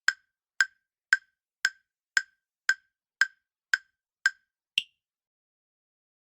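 Quiz countdown-timer tick sound effect: about two sharp wooden ticks a second, ten in all, the last one higher-pitched, then the ticking stops well before the end.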